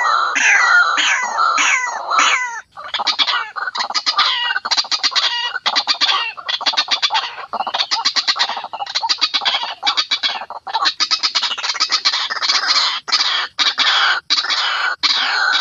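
White-breasted waterhen (ruak-ruak) calling loudly: harsh repeated notes that fall quickly in pitch for the first two seconds, then long fast rattling series broken by short pauses.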